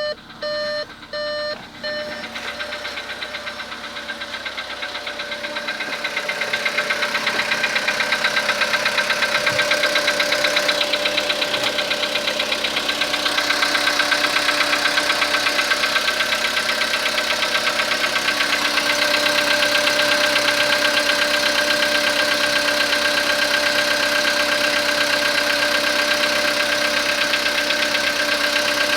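A few electronic chime beeps. Then the Skoda Rapid's 1.6 CFNA petrol four-cylinder catches about two seconds in and idles on a cold start, with a fast, steady ticking knock throughout, the engine knock the video is about.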